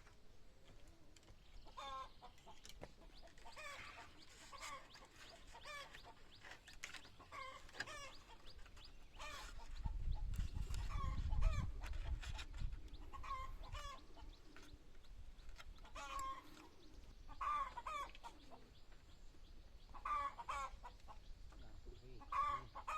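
Chickens clucking, short calls coming about once a second. About ten seconds in, a low rumble is heard for roughly two seconds.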